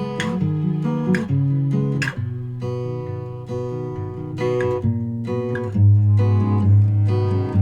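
Acoustic guitar strumming chords in an instrumental passage of a song, with a strong low bass note coming in about six seconds in.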